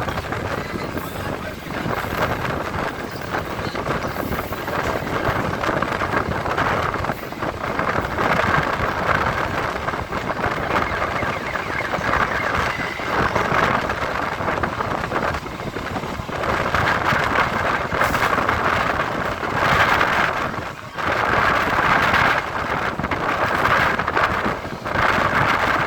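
EMU electric local train running at speed, heard from on board: a steady rumbling noise that swells and dips, with wind blowing across the microphone.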